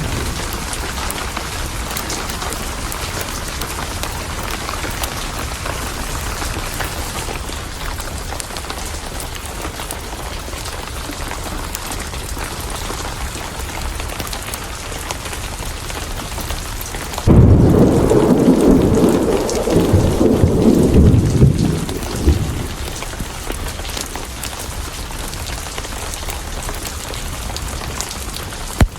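Steady heavy rain, with a sudden loud roll of thunder beginning a little past halfway and rumbling for about five seconds before it fades.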